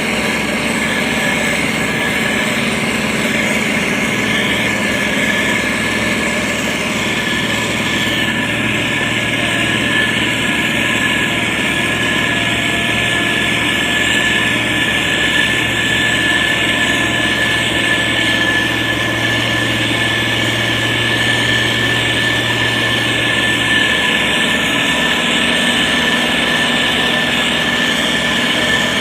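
Motor grader's diesel engine running steadily under load, with a steady high-pitched tone over the engine noise.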